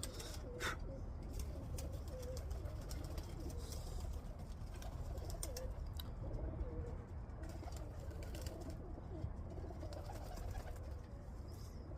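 Domestic pigeons cooing, several low wavering coos overlapping one after another, with a few faint clicks.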